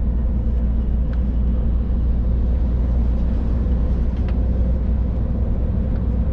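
Scania truck driving at a steady pace, heard from inside the cab: a constant low rumble of engine and road noise with a faint steady hum, and two faint clicks.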